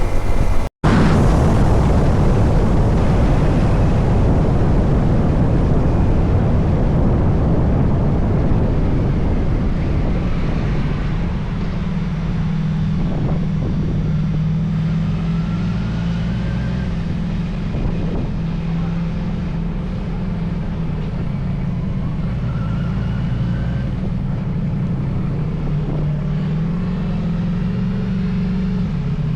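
Motorcycle on the move, heard from the rider's camera: rushing wind over a steady engine drone. The wind eases after about ten seconds, leaving the engine clearer, its pitch rising and falling a little with the throttle. There is a brief dropout about a second in.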